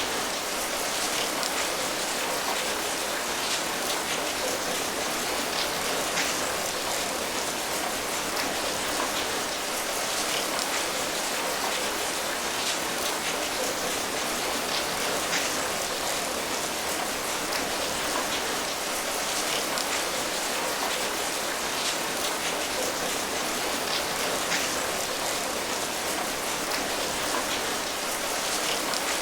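Steady rain falling, an even hiss dotted with the ticks of many single drops hitting a surface.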